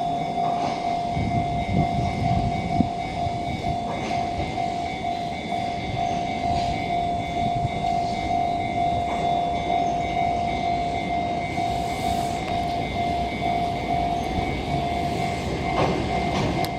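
Keihan Keishin Line electric train running along the platform, its wheels and running gear rumbling steadily, with a steady high-pitched tone held throughout.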